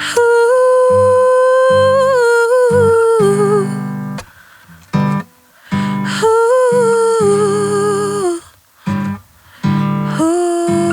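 A wordless vocal, hummed or sung on a vowel, holding long notes over strummed acoustic guitar chords. The music drops out briefly twice, about four and nine seconds in, and the voice comes back on a lower note near the end.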